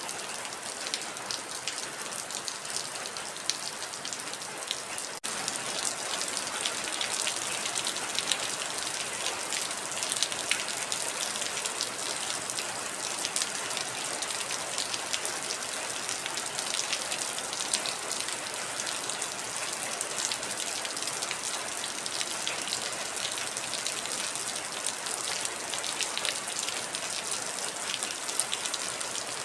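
Heavy rain falling steadily, a dense hiss full of individual drop ticks. About five seconds in it cuts out for an instant and comes back slightly louder.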